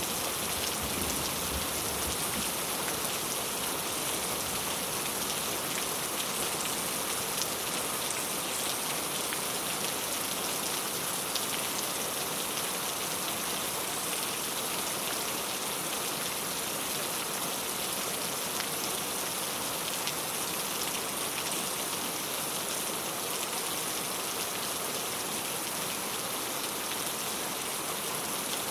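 Steady rain pattering on a clay-tile roof, a dense even hiss of many drops with scattered sharper ticks. A low rumble of thunder trails off in the first second or so.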